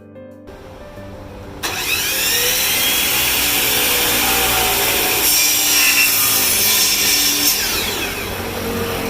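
Power saw cutting wood: a loud, continuous cutting noise that starts about a second and a half in, with a whine that dips and rises as it goes.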